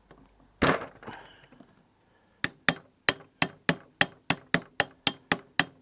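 Hammer tapping on metal to drive a tight taper-lock pulley onto a shaft: one ringing knock, then from about halfway a steady run of sharp taps, about four a second.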